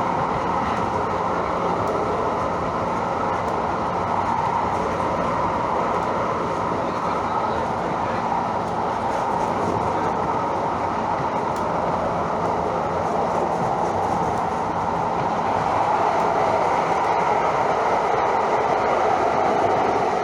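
Train running along the track: a steady rumble and rush of rail noise, growing a little louder in the last few seconds.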